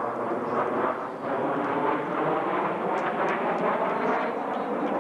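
Jet engines of a formation of military demonstration jets flying past, a steady rushing jet noise.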